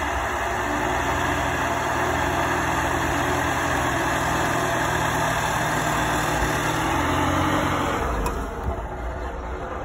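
Lada Niva's engine running hard while its wheels spin in deep snow, trying to pull the car out of a drift. The sound stays steady, then drops away abruptly about eight seconds in as the car moves off.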